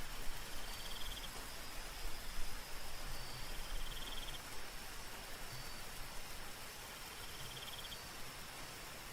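Soft rain falling steadily, with a night insect repeating a short, rapidly pulsed trill three times.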